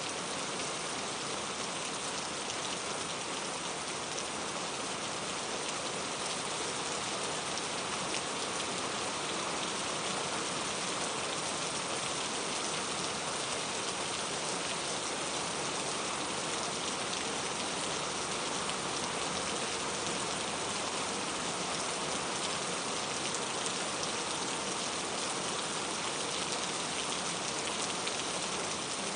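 Steady rain falling, an even hiss of many drops with no thunder or gusts.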